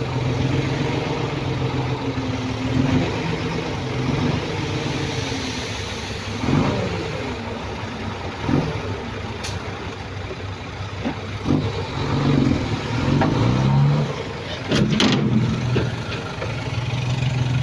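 Heavy diesel earthmoving machinery running, the engine note rising and falling as it works under changing load, with a few short knocks, the loudest about fifteen seconds in.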